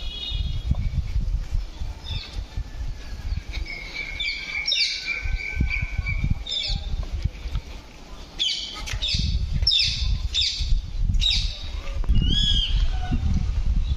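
Birds calling over a continuous low rumble: a held whistled note, then a run of about six quick, sharp down-slurred calls in the second half, and one more curved call near the end.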